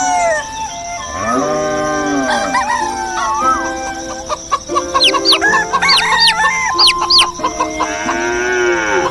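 Rooster crowing twice, about a second in and again near the end, with chickens clucking and high, rapid chirps in between, over background music.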